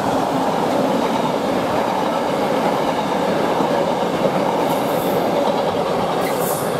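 Container wagons of a freight train rolling past at speed: a loud, steady rumble of steel wheels on the rails, with a couple of brief, faint high squeals near the end.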